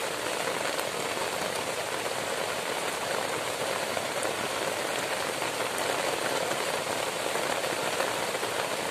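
Heavy rain falling steadily on a simple leaf-and-grass shelter, heard from underneath it, an even downpour with scattered louder drops.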